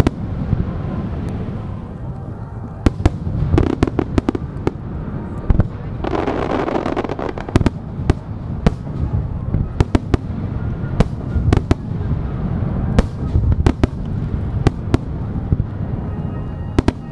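Aerial firework shells bursting in quick succession: many sharp reports over a steady low rumble. About six seconds in there is a dense crackling hiss that lasts about a second and a half.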